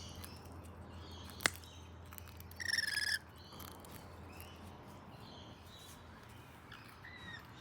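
Parrots calling: one loud harsh squawk about three seconds in, fainter short calls later, and a single sharp click near the start.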